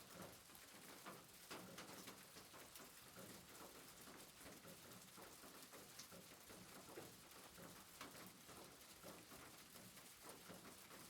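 Soft rain, faint: an even hiss with many small, irregular drop ticks.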